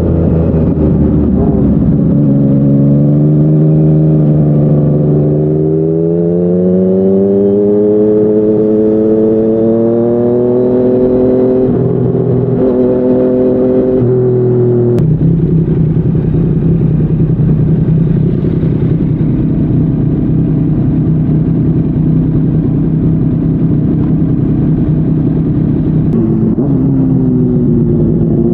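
Yamaha MT-09's inline-three engine through a Yoshimura R55 slip-on exhaust, ridden on the road. The note climbs steadily for the first third, drops suddenly about halfway and then holds a steady tone, and changes pitch again near the end.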